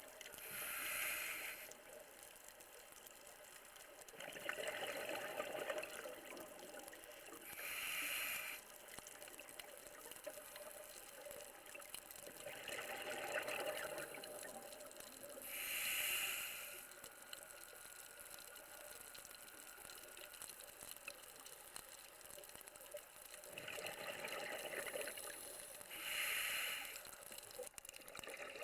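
Scuba diver breathing through a regulator underwater: short hissing inhalations alternate with longer rushes of exhaled bubbles, a slow cycle of a breath every several seconds.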